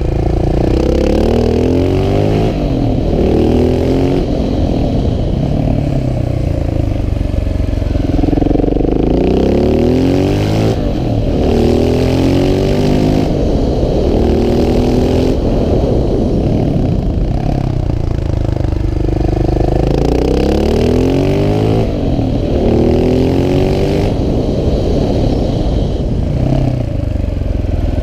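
KTM 690 SMC R's single-cylinder four-stroke engine revving up through the gears and dropping back again and again as the supermoto accelerates, shifts and slows.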